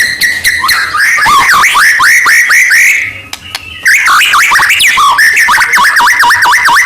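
White-rumped shama singing loudly in varied whistled phrases. It opens with a fast repeated note, breaks off briefly a little after the middle, then ends in a rapid run of repeated swooping whistles, about five a second.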